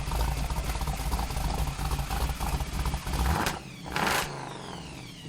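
Ford street rod's engine running with a deep, uneven rumble that cuts off abruptly about three seconds in, followed by a short burst of noise and a fading tail.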